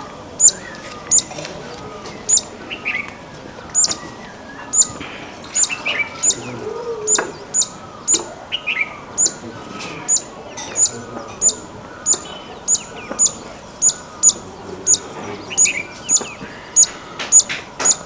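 A small bird repeats a short, sharp, high call about twice a second, with a few brief breaks. Softer, varied calls from other birds sound behind it.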